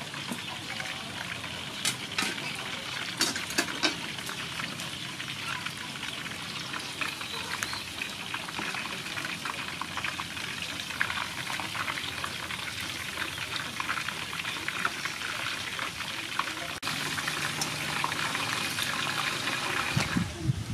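Pork belly deep-frying in oil in a large aluminium pot: a steady crackling sizzle. The metal lid and utensils clank a few times in the first seconds.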